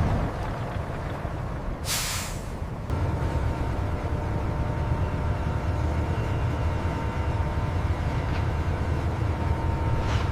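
Steady low rumble of a ship's engine. A short hiss breaks in about two seconds in and lasts about a second.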